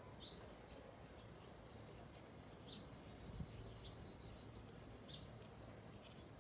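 Faint, scattered short bird chirps, a few in all, over quiet outdoor background, with a brief low bump about halfway through.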